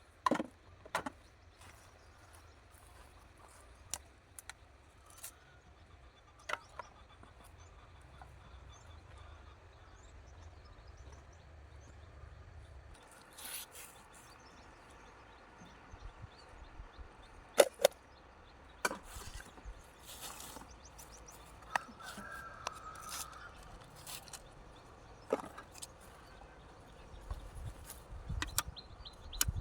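Scattered sharp knocks and clacks, irregular and one to several seconds apart, over a faint steady background.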